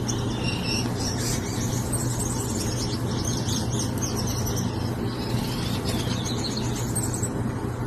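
Pet birds chirping and twittering in quick, high calls, over a steady low hum.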